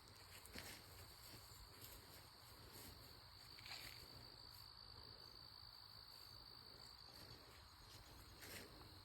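Faint, steady high-pitched insect trill, with a few faint ticks and rustles.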